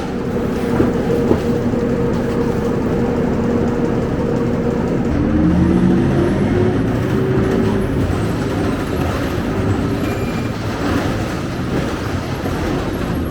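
Scania K270UB low-entry bus running, a steady engine drone whose pitch shifts about five seconds in as the engine note changes.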